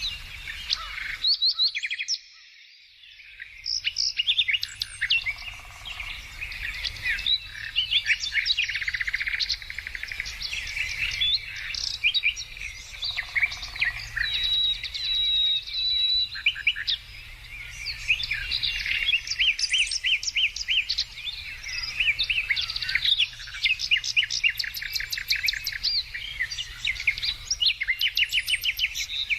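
Several songbirds singing at once: a dense chorus of overlapping chirps and rapid trills. It briefly drops away about two seconds in, then resumes, over a faint steady low rumble.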